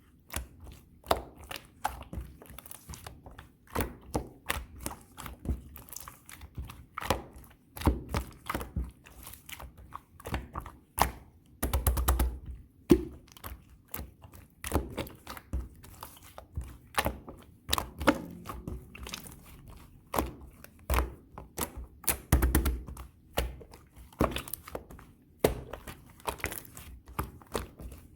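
Blue clear slime with small round beads on top being pressed, squished and poked by hand, giving dense, irregular sharp clicks and crackling pops with occasional soft thuds.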